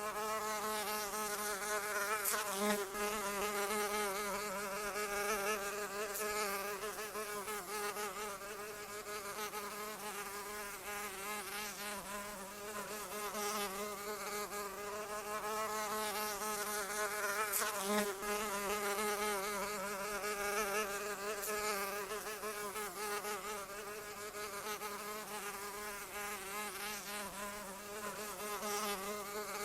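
A fly buzzing in flight, a continuous low wingbeat hum whose pitch wavers slightly. It grows louder and softer every few seconds as it moves about.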